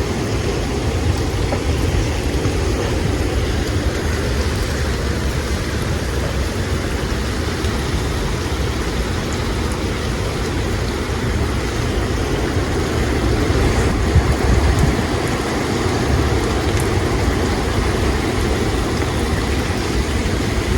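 Strong storm wind gusting and heavy rain, the wind buffeting the phone's microphone as a steady deep rumble, swelling a little past the middle.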